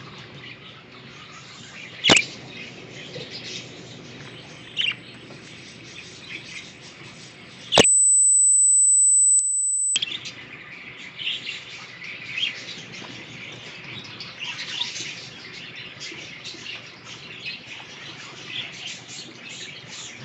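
English budgies chirping and chattering in many short, quick calls. A sharp click comes about two seconds in, and a loud, steady high-pitched tone sounds for about two seconds near the middle.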